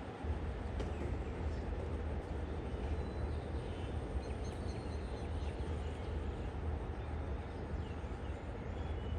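Steady low rumble of a diesel locomotive engine running, even throughout, over faint background noise.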